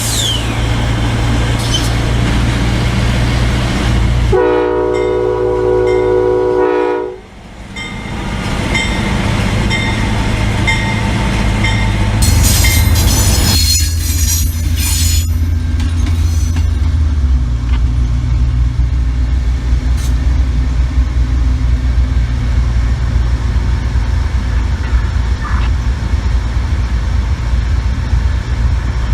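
Diesel locomotive horn sounding one chord blast of just under three seconds, about four seconds in, cutting off abruptly, over the steady low rumble of a moving train. A brief high-pitched sound comes about twelve seconds in.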